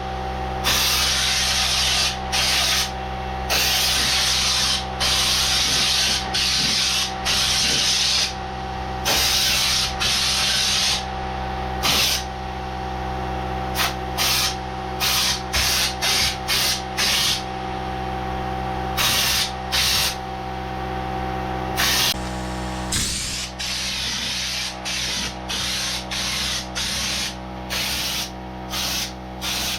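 Air-fed spray gun applying Raptor liner coating in hissing bursts as the trigger is pulled and released: several long blasts in the first half, then many short quick ones. A steady machine hum runs underneath.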